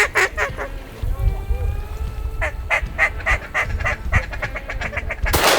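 Rapid runs of duck quacks, several a second, a loud string of them about two seconds in. A single shotgun blast comes near the end.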